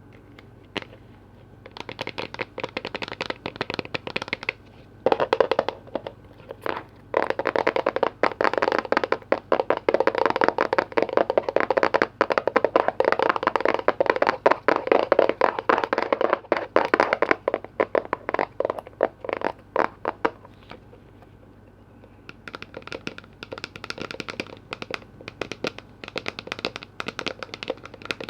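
Rapid, dense tapping and clicking on container lids, starting about two seconds in and loudest through the middle. After a short pause it resumes more softly near the end.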